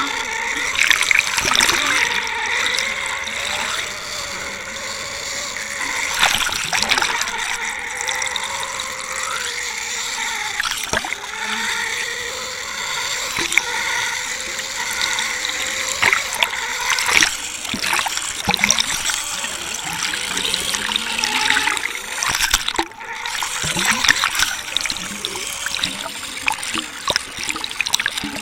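Water rushing past a Water Wolf underwater camera as it is pulled through the sea, with wavering tones and scattered knocks.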